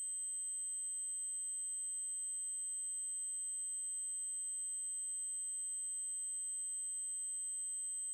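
Synthetic 8192 Hz triangle-wave tone: one very high, steady pitch held without change.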